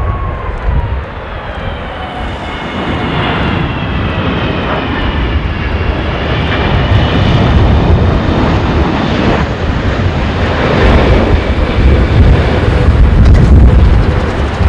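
Jet airliner on final approach passing close by: turbofan whine with several high tones slowly falling in pitch over a low engine rumble that grows louder toward the end. Gusty strong wind buffets the microphone.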